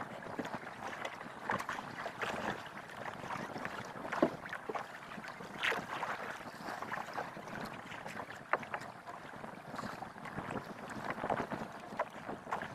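Water splashing and sloshing against a wooden fishing canoe, with irregular knocks and clatters as the anchor line, brick ballast and anchor are hauled aboard. Some wind on the microphone.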